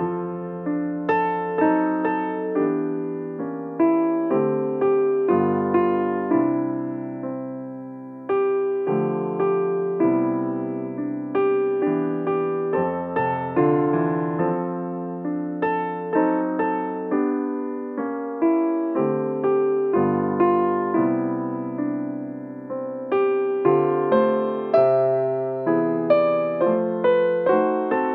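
Piano music: an unhurried piece of chords and melody notes, each struck and fading away.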